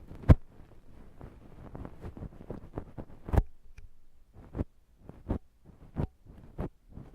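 Ear-cleaning tool working inside a silicone ear full of wet, sticky earwax: a stretch of close, dense scratching and crackling with two sharp clicks, then single clicks roughly every two-thirds of a second.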